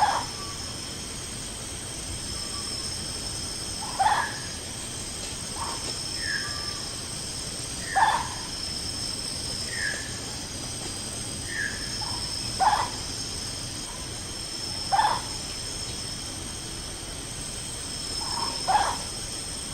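Night insects buzzing in steady high tones, with a short animal call repeating about every two to four seconds, each call the loudest sound.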